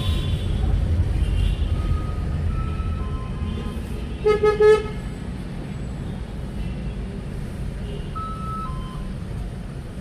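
Steady road-traffic rumble, with a car horn tooting about three times in quick succession about four seconds in.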